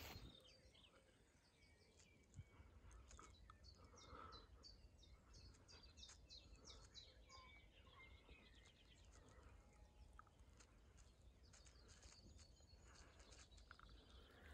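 Faint birdsong: small birds chirping in quick runs of short, high notes, busiest around the middle.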